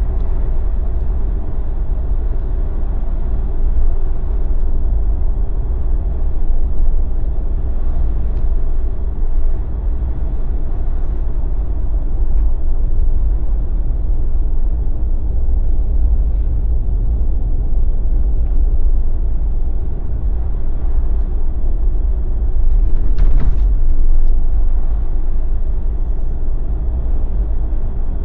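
A Jeep driving along, its road and engine noise a steady deep rumble. A single short sharp knock comes about 23 seconds in.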